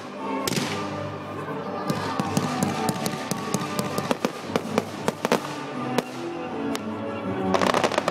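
Fireworks display: a rapid string of sharp bangs and crackles from bursting shells, over music accompanying the display.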